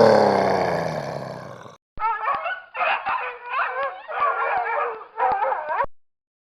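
Two animal sounds edited back to back. First a loud call falls in pitch and fades away. Then, after a brief break, comes a run of high, wavering animal cries with faint ticks between them, which cuts off abruptly.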